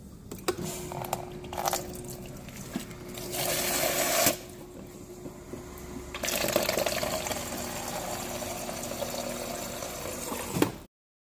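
Water running through a refrigerator's water supply: a few short spurts, then a steady flow, over a thin steady hum.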